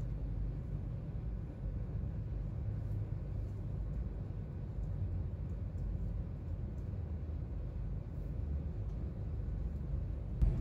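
Steady low rumble of a moving intercity train heard from inside the carriage: the running noise of the train on the track, even and without distinct knocks or clicks.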